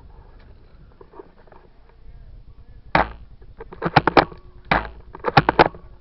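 Sharp mechanical clacks close to the microphone, from an airsoft rifle being fired and handled: one crack about three seconds in, then a quick cluster of several clacks, another crack and a second quick cluster near the end.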